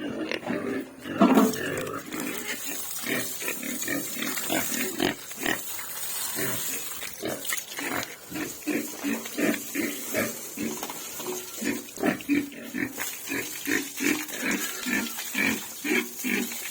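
Pigs grunting, short grunts coming two or three a second, with one louder, longer call about a second in.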